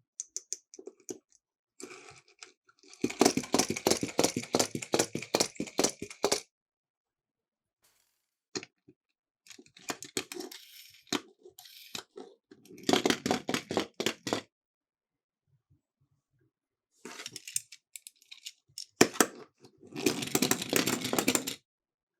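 Miniature toy cars rattling as they roll down a slope, in three bursts of rapid clatter lasting a few seconds each, with scattered single clicks between them.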